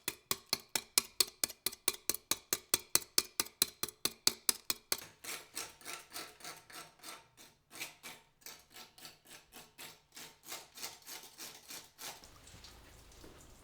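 A hand tool worked in rapid, even strokes, about six a second, with a rasping sound; about five seconds in the strokes turn softer and slower, about two or three a second, and stop near the end.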